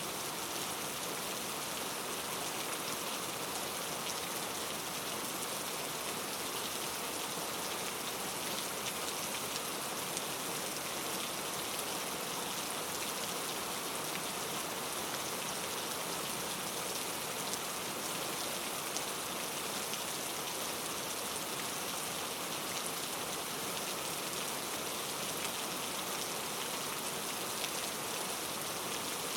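Steady rain falling, a constant hiss of many small drops pattering on a surface, with no let-up or thunder.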